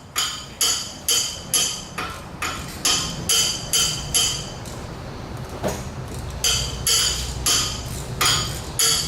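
Hammer striking metal in steady blows, about two a second, each leaving a short metallic ring, with a pause of about two seconds midway.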